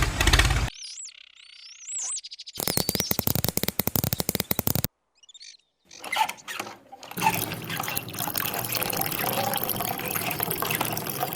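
Water from a small DIY mini-motor water pump, running steadily from about seven seconds in. Before it come a loud burst, a few short chirps and a rapid, even clicking rattle lasting about two seconds.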